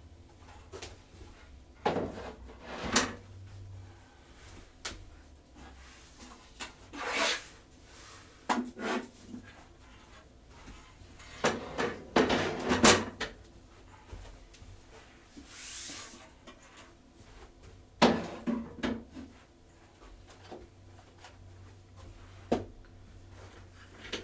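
Things being handled and set down on a hard tabletop: scattered, irregular knocks, taps and clatters with some rubbing. About sixteen seconds in there is a brief scraping hiss.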